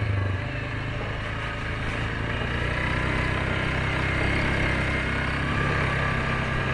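Suzuki KingQuad 750 ATV's single-cylinder four-stroke engine running steadily while the quad is ridden along a trail.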